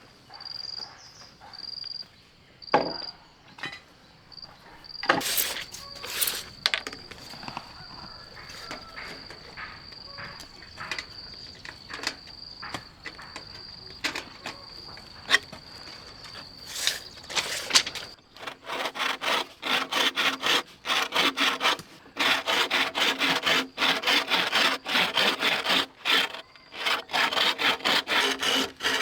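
Wood being knocked and handled, then about two-thirds of the way in a hand saw cutting wood in fast, regular back-and-forth strokes, which become the loudest sound. A cricket-like insect trills steadily at a high pitch through the first part.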